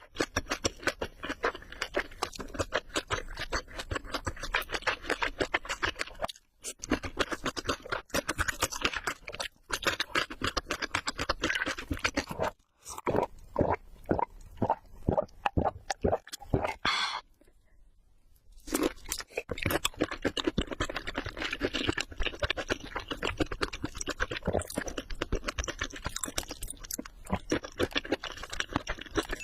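Chewing of crispy fried prawns close to the microphone: a dense run of crunches, with a few short pauses and a stretch of slower, separate bites about halfway through.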